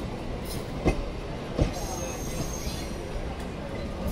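Indian Railways passenger coaches rolling past, their wheels giving a pair of knocks over a rail joint about a second in, over a steady rumble of the running train. A faint high wheel squeal comes in the middle.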